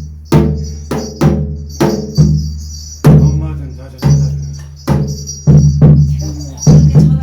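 Percussion music for a Korean shamanic gut ritual: loud drum strikes about twice a second, each ringing out, over a steady high metallic jangle.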